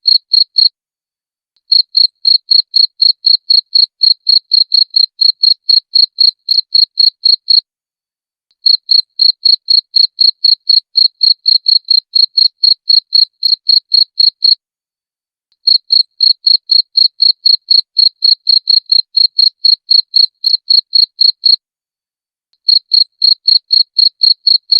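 Cricket chirping loudly and clearly, a high-pitched chirp about four times a second, in runs of about six seconds broken by pauses of about a second.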